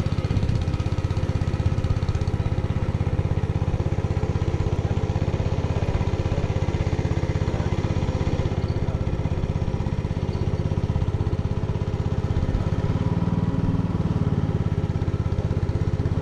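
A small boat's motor running steadily at an even speed, with a fast, even pulse.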